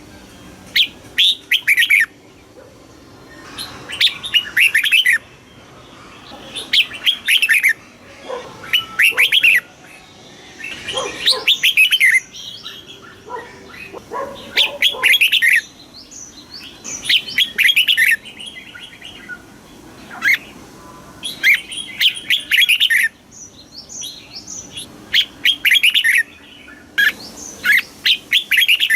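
Red-whiskered bulbul singing: short, bright, quickly warbled phrases about a second long, repeated every two to three seconds.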